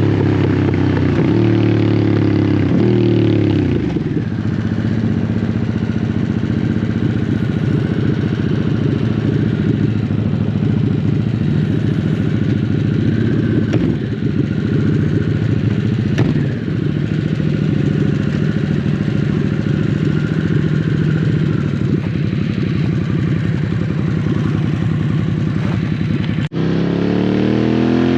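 Harley-Davidson Sportster S's 1250 cc Revolution Max V-twin engine through a custom slip-on exhaust, ridden at low revs. Its note falls away over the first few seconds, then holds fairly steady with small rises and falls, and drops out suddenly for a moment near the end.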